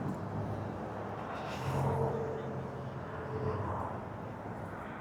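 A vehicle engine running in the background of a busy parking lot, swelling briefly about two seconds in.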